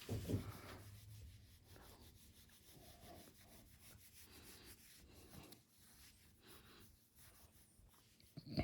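Faint rubbing and scuffing, with a soft knock at the start and a brief sharper sound near the end.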